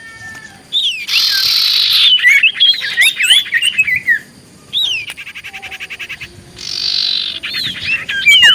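Common iora singing lively: quick whistled notes that slide up and down, bursts of fast ticking chatter, and a harsh rasping call twice, about a second in and again near the end.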